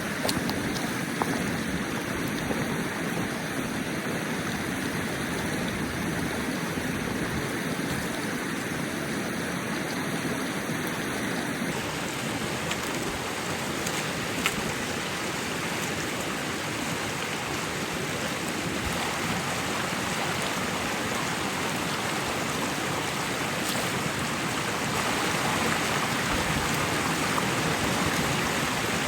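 Steady rushing hiss, even throughout, with a faint tick or two.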